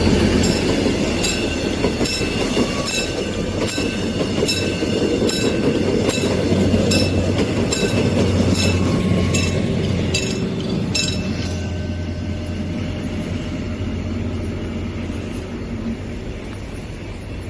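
Mugunghwa-ho passenger train rumbling past at a level crossing, its noise slowly fading toward the end. Over it the crossing's warning bell rings steadily, a little more than once a second, then stops about 11 seconds in.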